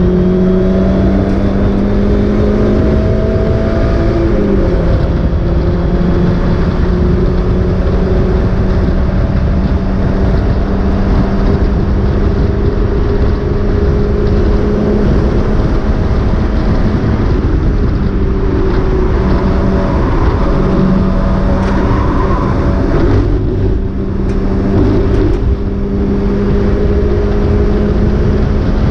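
Mazda MX-5 race car's four-cylinder engine running hard at fairly steady revs, with a brief drop in pitch about four seconds in like a gear change and a few short dips in the note near the end. The car is running with a misfire that the driver says ruined the race.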